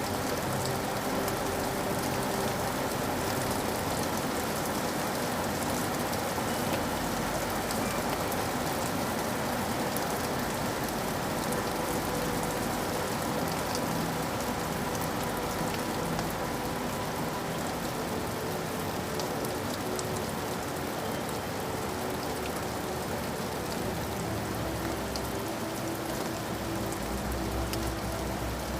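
Steady rain falling on a surface, a dense even hiss with many fine individual drop ticks.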